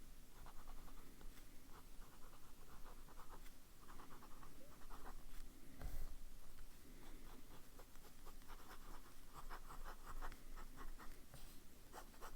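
Fountain pen with a smooth medium nib writing on paper: soft, light nib strokes in quick clusters, with some writing feedback but not scratchy. A single soft knock about six seconds in.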